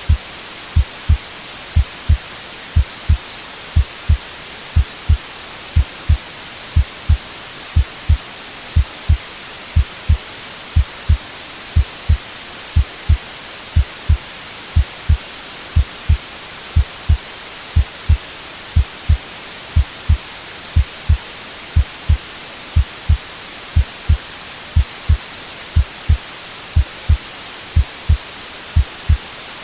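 Heartbeat sound, low double thumps (lub-dub) about once a second in a steady slow rhythm, over a continuous white-noise hiss.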